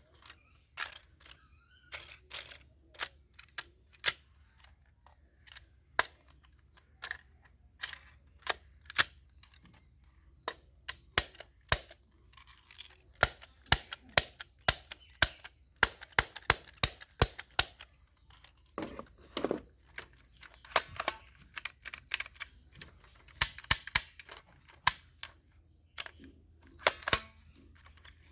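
Toy guns being handled and worked: many sharp plastic clicks and clacks at irregular spacing, some in quick runs, with a few brief rustling stretches.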